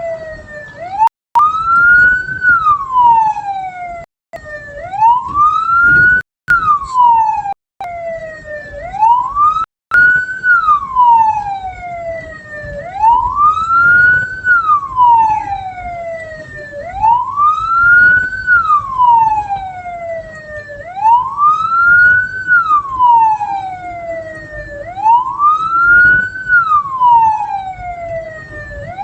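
Vehicle siren in a slow wail, each cycle rising for about a second and falling for about three, repeating about every four seconds over a low rumble of road and engine noise. The sound cuts out briefly several times in the first ten seconds.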